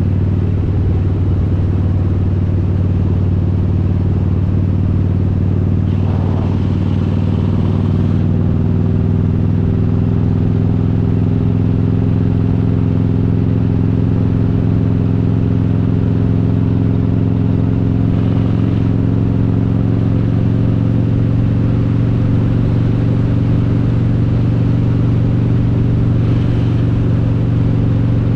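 Harley-Davidson Road King's S&S 95-inch V-twin running under way, a steady engine note whose pitch rises slowly through the middle and later part as the bike gains speed. A few short bursts of hiss sit over it.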